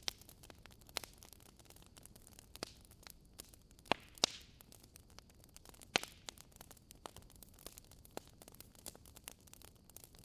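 Wood fire crackling in a fireplace: burning logs giving off scattered small snaps and pops over a faint hiss, with a few louder pops near the middle, one followed by a brief hiss.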